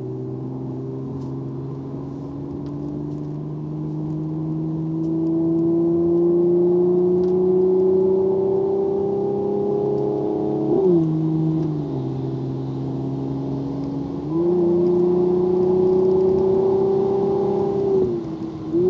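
Mercedes-AMG C43's twin-turbo V6 pulling hard under acceleration, heard from inside the cabin, its pitch climbing steadily. About eleven seconds in the pitch falls sharply, climbs again about fourteen seconds in, and dips again near the end.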